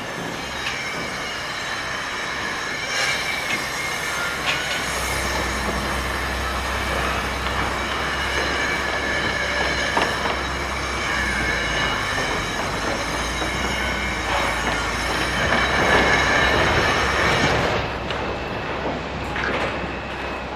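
Continuous high metal-on-metal squealing at several steady pitches, over a low heavy rumble that comes in about five seconds in. It grows loudest around sixteen seconds and eases near the end.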